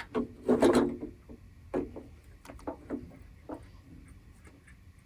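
Light clicks and knocks of small metal parts being handled as the throttle and governor linkage rods are hooked into the carburetor, a quick cluster in the first second, then a few single clicks that die away.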